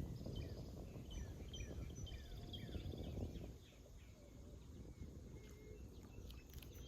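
Birds chirping and calling, many short notes in the first half and sparser calls later, over a low rumble.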